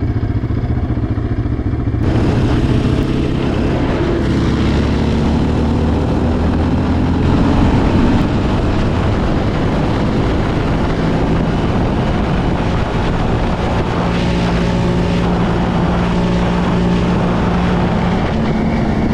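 Yamaha Raptor 700R quad's single-cylinder four-stroke engine running under way. It gets louder about two seconds in as the throttle opens, and its pitch rises and falls with the throttle.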